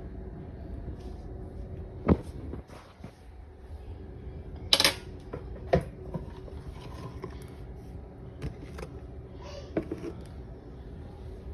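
Kitchen handling noise: a few sharp knocks and clicks, like cupboard doors and utensils being moved. The loudest come about two seconds in and a little before the middle. They sit over a steady low hum.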